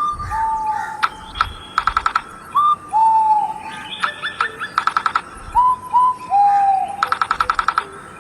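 Birds calling: three loud, rapid trills, with short whistled notes that slur downward in between.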